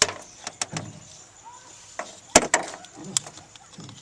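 Irregular knocks, clunks and clicks of gear handled in a small boat as a heavy boat battery is moved and hooked up, with the loudest knock about two and a half seconds in.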